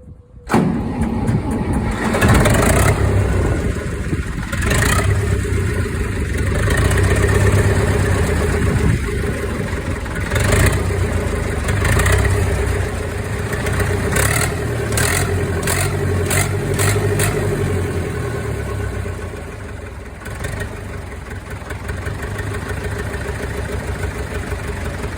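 Zetor 440 tractor's diesel engine running with its repaired injection pump, its note swelling and easing as it works. Several sharp clacks are heard about midway through.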